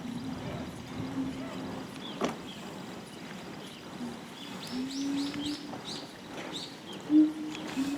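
A bird chirping, with a quick run of short high chirps about halfway through, over a low murmur of voices.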